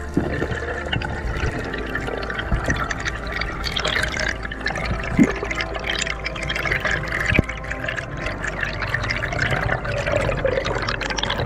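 Moving water, gurgling and trickling, with two sharp knocks partway through.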